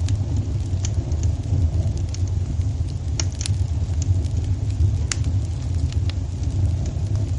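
Wood fire burning in a fireplace: a steady low rumble with sharp crackles and pops, about one or two a second.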